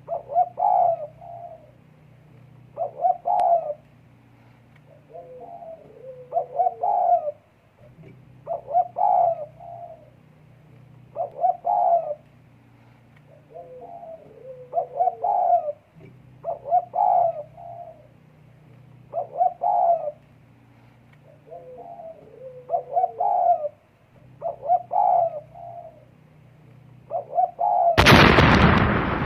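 A puter dekukur dove cooing over and over in short phrases, one every second and a half to two seconds: the calling of a dove in breeding condition. Near the end a sudden loud clang cuts in and rings on.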